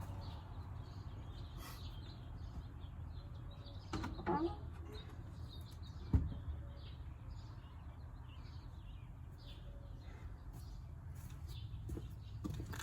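Small birds chirping over and over in the background, with a low steady rumble. A short squeak about four seconds in and a single sharp knock about six seconds in.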